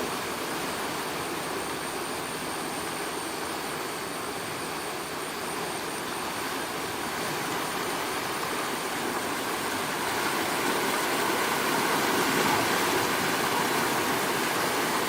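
Steady rushing noise of flowing floodwater, growing a little louder about ten seconds in.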